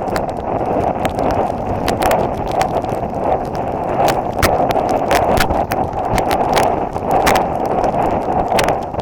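Strong wind buffeting the microphone of a camera carried on a run, a steady rushing noise, with many short irregular clicks and footfalls over it.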